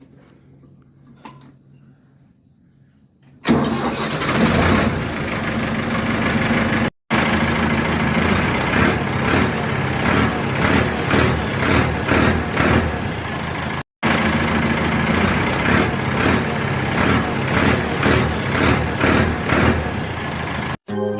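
Ford 4x4 tractor engine, which starts suddenly about three and a half seconds in and then runs loudly, swelling in regular pulses. The sound cuts out briefly twice.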